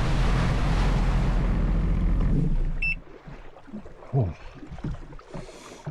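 Sea-Doo jet ski running at speed, its engine hum mixed with rushing water and wind, then easing off sharply about three seconds in with a short high beep. After that, quieter water splashing and slapping around the hull.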